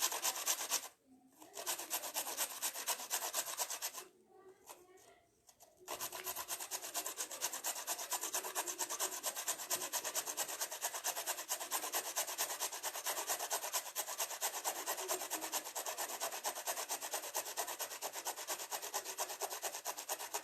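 A carrot being grated by hand on the medium holes of a household grater: quick, even scraping strokes, with a brief pause about a second in and a pause of about two seconds around four seconds in.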